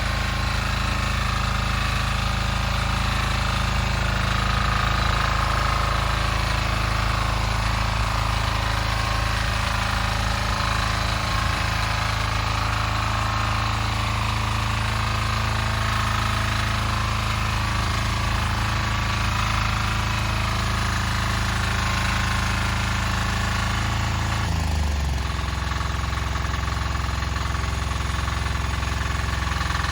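Diesel walk-behind tractor's single-cylinder engine running steadily with a hard, knocking beat. About 25 seconds in, the engine speed drops and it settles at a lower, steady pitch.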